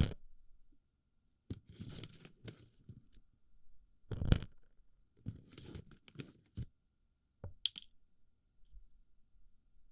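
Plastic BB pellets being stuffed into and rolled around a microphone's ear: irregular bursts of crunching and rattling with short clicks between them. The loudest burst comes about four seconds in.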